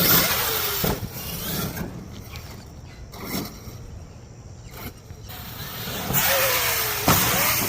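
Traxxas X-Maxx RC monster truck running over rough ground: a loud rush of its electric motor and tyres at the start and again near the end, with four sharp knocks from jumps and impacts about a second in, a few seconds in, around the middle and near the end.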